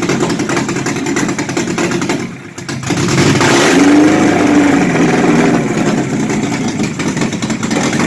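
Car engine idling, dropping briefly about two and a half seconds in, then revved up and easing back down, as the throttle is raised and lowered during an ignition timing check.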